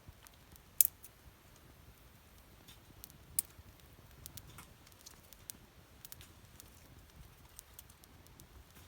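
Campfire wood crackling: scattered small snaps, with a loud pop about a second in and another a few seconds later.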